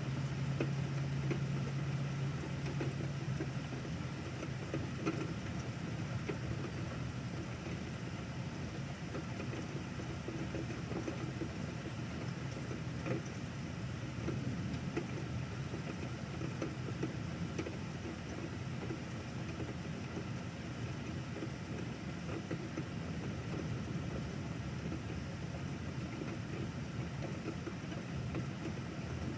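Steady rain falling, with a low engine-like hum under it that is strongest for the first few seconds and then fades.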